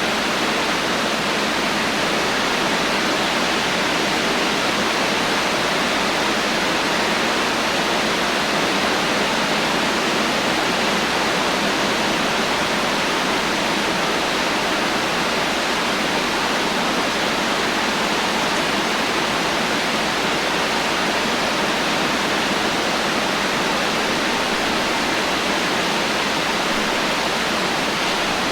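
Heavy rain falling steadily: an even, unbroken hiss with no separate drops, drips or thunder standing out.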